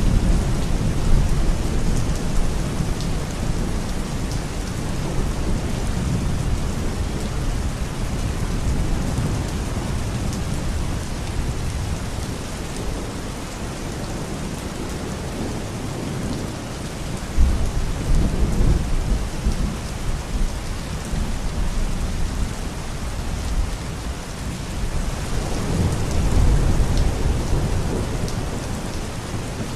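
Steady rain falling, with deep rolling thunder that swells up about halfway through and again near the end.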